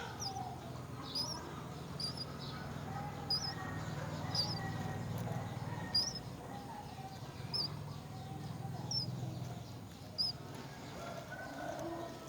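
Small birds chirping: short, high chirps repeating about once a second, with fainter lower calls and a low steady hum underneath.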